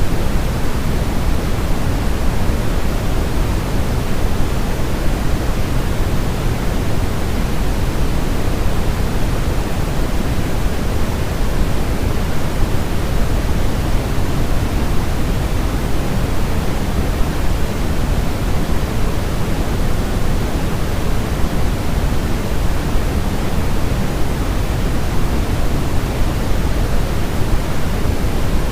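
Steady pink noise, an even rushing hiss weighted toward the low end, running unchanged with no rhythm or breaks.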